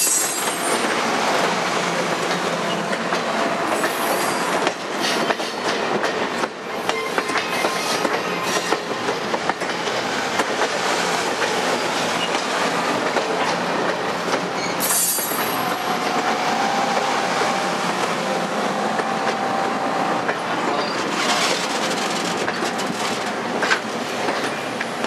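Streamlined passenger cars of the Cuyahoga Valley Scenic Railroad rolling slowly past at close range: a steady rumble of steel wheels on the rails, with irregular clacks as the wheels cross rail joints. A faint high wheel squeal comes in about two thirds of the way through.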